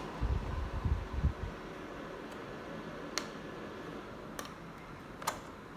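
Portable mini air cooler fan running steadily with a faint hum, while the plastic unit is handled: low bumps in the first second and a half, then a few sharp clicks in the later half.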